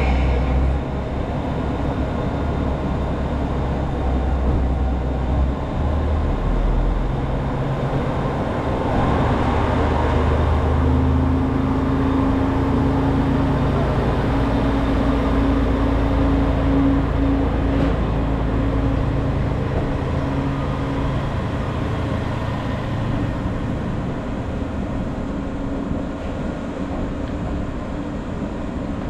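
KiHa 40 diesel railcar's engine running, then throttling up about nine seconds in as the railcar pulls away, holding a steady drone for about ten seconds before easing off and growing fainter.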